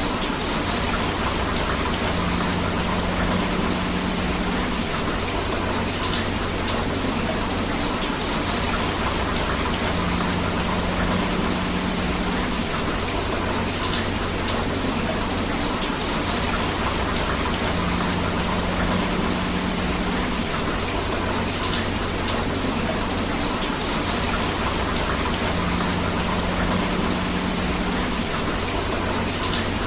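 Steady rain with flowing river water, an even, continuous rush, with a faint low hum that rises and fades about every eight seconds.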